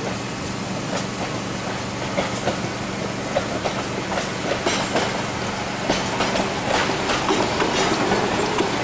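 Steam locomotive W 192 and its train running along the track, the wheels clicking over the rail joints. The clicks come more often and the sound grows louder toward the end.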